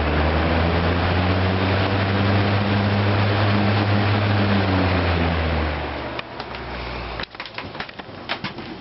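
Superlectric 1475T 12-inch metal-bladed box fan running on high: a steady motor hum with several low tones under a rush of air. About six seconds in, the hum sinks slightly in pitch and fades away. A scatter of light clicks follows.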